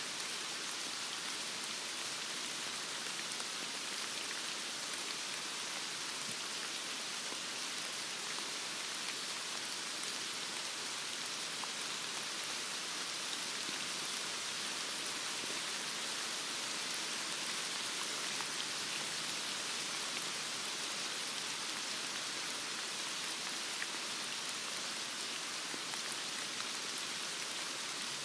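Heavy rain falling in a steady, even hiss, with faint scattered drop ticks.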